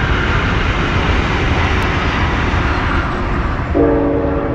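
Brightline passenger train crossing a bridge: a steady rumble and rush that eases a little about three seconds in. Near the end the train horn comes in suddenly with a steady chord.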